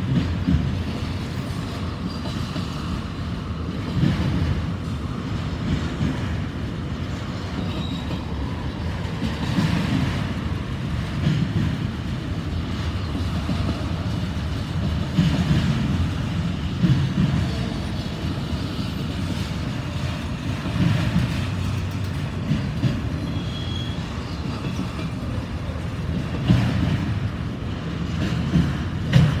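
Long freight train's cars, apparently empty auto racks, rolling steadily past, their wheels clacking over the rail joints with a continuous low rumble.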